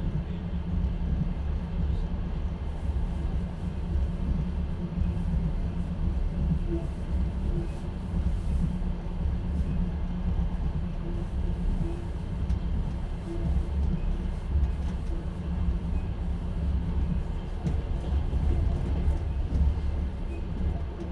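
Moving passenger train heard from inside an open-plan sleeper (platskart) carriage: the steady low rumble of the wheels running on the rails.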